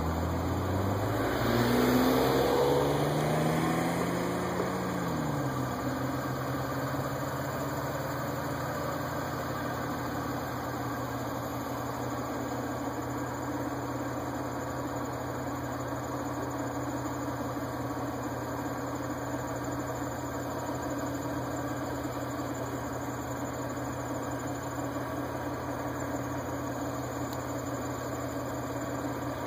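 Steady engine hum, like a car idling, with a vehicle passing in the first few seconds, its engine sound falling in pitch as it goes by.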